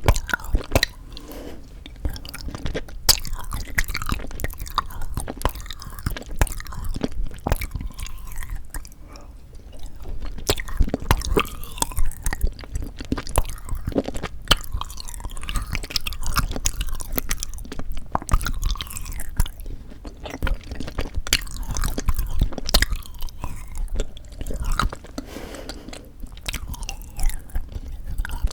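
Close-miked chewing and biting of frozen sweet red bean jelly (yanggaeng): a dense, irregular run of wet mouth clicks and smacks.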